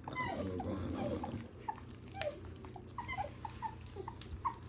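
A litter of three-week-old American Bully puppies whimpering and squeaking in many short, overlapping high cries. There is a single sharp click about two seconds in.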